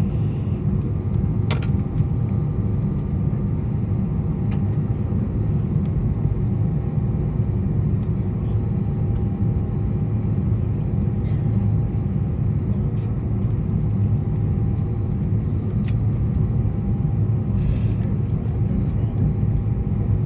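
Airbus A320 cabin noise on the ground at the end of the taxi in: a steady low rumble with a faint steady hum over it and a few light clicks.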